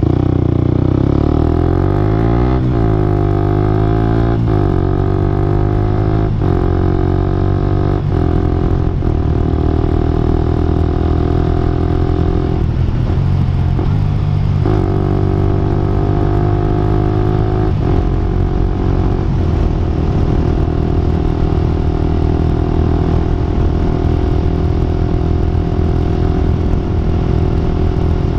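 Suzuki GSX-R125/GSX-S125 single-cylinder four-stroke running through an aftermarket Akrapovic-style slip-on exhaust, ridden at speed. The engine note rises and falls through several gear changes in the first ten seconds, eases off briefly about halfway, then holds a steady cruising drone.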